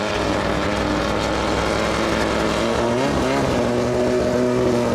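Racing boat engine running hard at high revs. Its pitch dips and climbs again about three seconds in, then holds steady.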